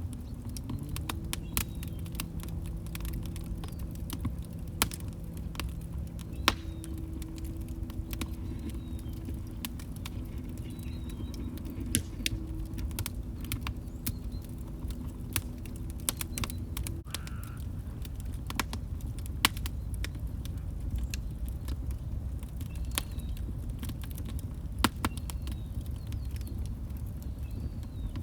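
Log fire crackling, with sharp irregular pops and snaps over the low rumble of the flames. A faint low hum sits under it and stops about 17 seconds in.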